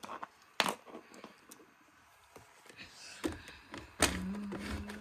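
Cartoon sound effects: a sharp click about half a second in, then a steady low motor-like hum that starts about four seconds in.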